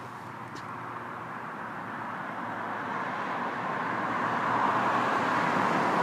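Road traffic noise: a vehicle's tyres on the road growing steadily louder as it approaches.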